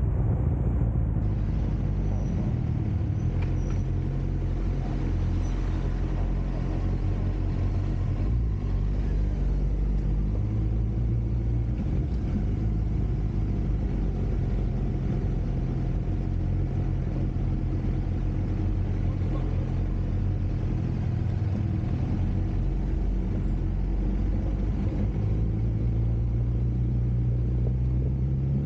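Suzuki GSX-R sport bike's engine running at low road speed, a steady low hum whose revs shift gently and pick up near the end.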